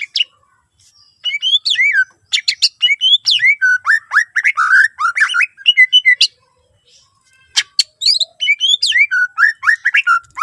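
A cucak ijo (green leafbird) singing in fast, loud runs of chirps and sweeping whistled notes, its song full of mimicked phrases. One burst of song runs for about five seconds, breaks off for a moment, then starts again.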